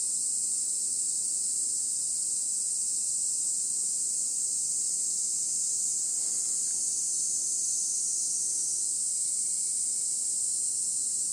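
A steady, high-pitched insect chorus shrilling without a break.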